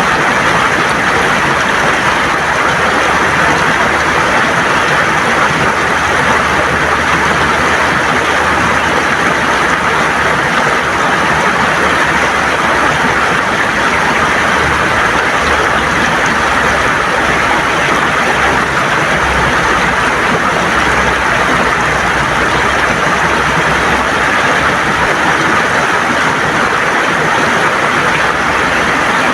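River water gurgling and rushing over stones, a steady even flow.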